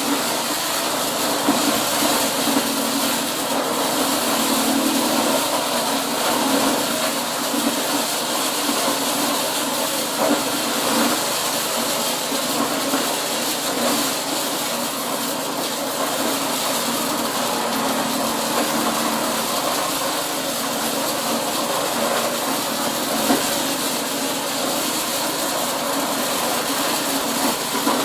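Corn-processing machine running steadily, a continuous engine hum under an even rushing, rattling noise.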